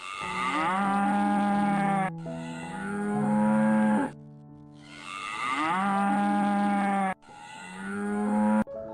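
A cow mooing: four long moos in two close pairs, each about two seconds. Background music plays underneath.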